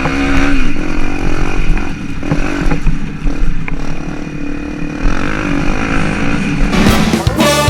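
Motocross bike engine running hard, its pitch rising and falling with the throttle. Music begins near the end.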